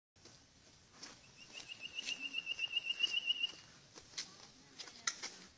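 A bird's fast trill: one high note repeated about seven times a second for a couple of seconds, starting about a second in. A few sharp clicks and knocks from handling a helmet are scattered through, the last two near the end.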